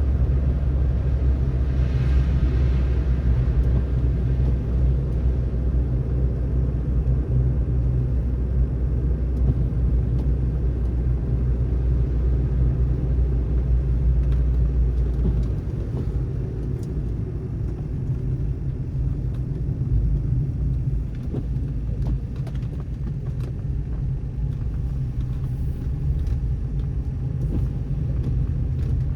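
Car driving on a snowy road: steady tyre and engine rumble, with the deepest part of the rumble easing off about halfway through. A brief hiss about two seconds in.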